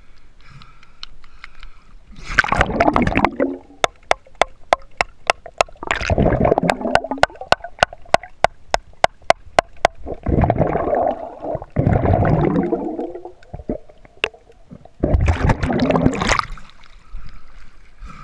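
Underwater sound: gurgling bursts of water or bubbles every few seconds, with a run of sharp, evenly spaced clicks, about three a second, between the first bursts.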